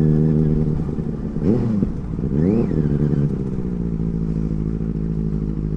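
Benelli 600i's inline-four engine idling steadily, with two quick throttle blips about one and a half and two and a half seconds in, the revs rising and falling back each time.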